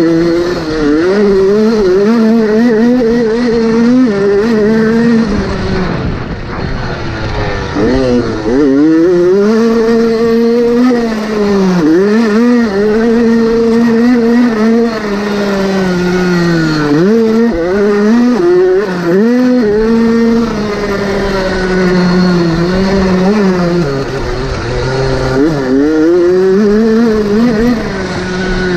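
Motocross dirt bike engine at race pace, its pitch climbing and falling over and over as the throttle is opened and shut, with quick sharp drops and climbs as the rider shifts and works the bike over the track.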